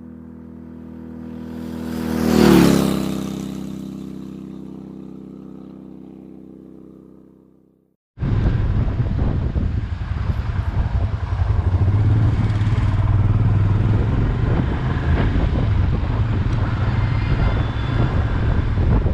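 A steady multi-tone sound swells to a peak about two and a half seconds in, then fades out over several seconds. After a brief gap, a loud, steady vehicle engine rumble cuts in about eight seconds in.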